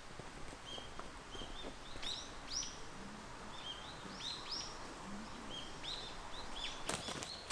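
Songbirds singing: repeated short, high chirping notes, some sweeping downward and some held level, with a few sharp clicks near the end.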